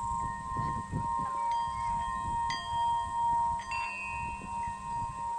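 Tibetan singing bowls ringing: one bowl holds a steady, slowly beating tone throughout, while other bowls are struck about three times, each strike adding a new higher ringing tone that lingers.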